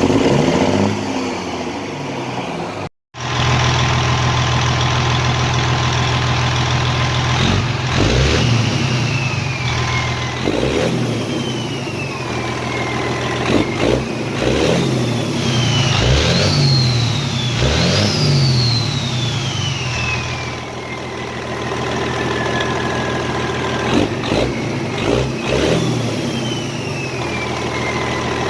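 Detroit 60 series 14-litre diesel in a semi truck idling and being blipped repeatedly, each rev followed by a high turbo whistle that falls slowly as it spools down. The sound cuts out briefly about three seconds in.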